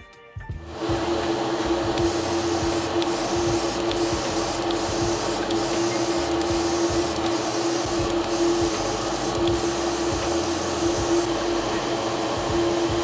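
A small motor or blower running steadily: a rushing hiss with a strong, even hum, starting just after the music cuts out.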